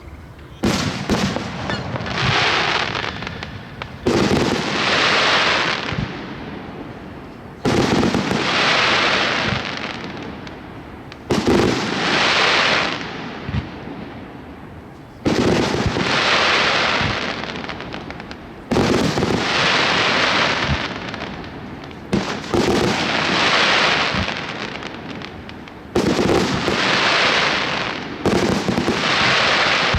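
Aerial fireworks shells bursting one after another, about every three to four seconds. Each sharp bang is followed by a couple of seconds of dense crackle that fades before the next.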